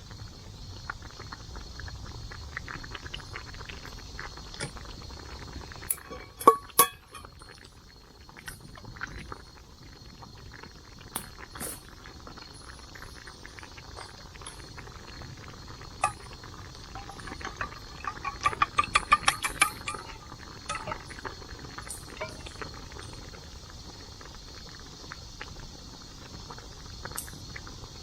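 Camp cookware clinking in scattered short strikes, with a loud pair about a quarter of the way in and a quick run of about a dozen clinks about two-thirds of the way through, over a faint steady high tone.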